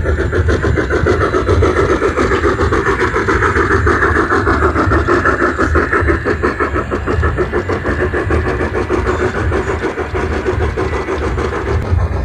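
Garden-scale model train running on its track: a steady motor whir with rapid, even clicking of wheels and gears.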